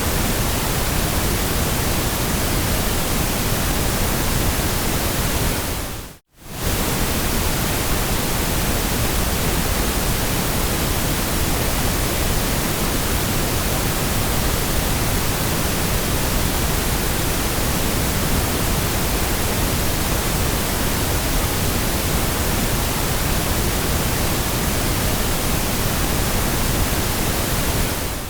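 Steady ambient white noise, an even hiss with no tones or events and more weight in the low end. About six seconds in it briefly fades out to near silence and straight back in.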